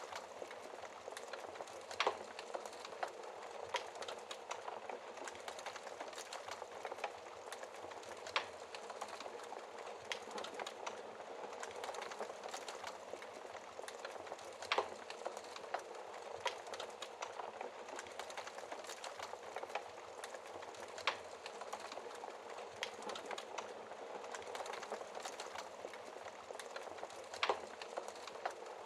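Fire crackling in a fireplace: a steady hiss of small crackles with a sharper, louder pop about every six seconds.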